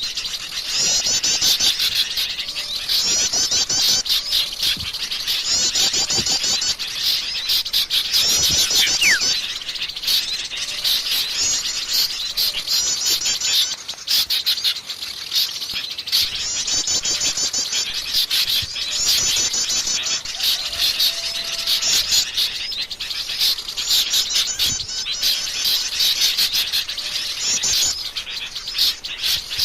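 Noisy chorus of small songbirds in a bird-luring recording: bursts of rapid high trills repeat about every two seconds over constant chips and twitters.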